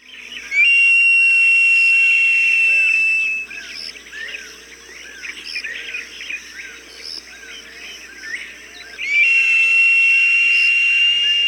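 Hawk calls from a bird-deterrent recording: two long, steady, high whistled calls, each about three seconds, with the second starting about nine seconds in. Between them are many short bird chirps.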